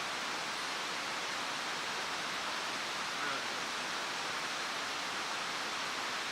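Mountain stream rushing with a steady, even sound.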